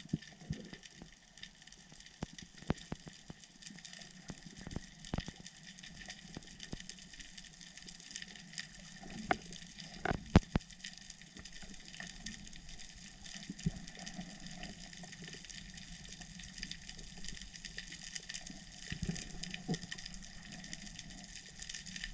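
Underwater ambience heard through a camera housing: a steady water hiss with scattered sharp clicks and crackles throughout, and one loud sharp knock about ten seconds in.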